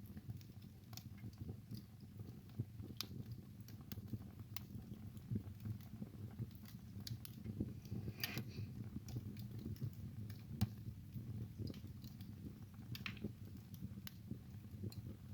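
Wood fire burning in a fireplace: a steady low rumble of flames under frequent, irregular sharp crackles and snaps from the burning wood, with a few louder pops.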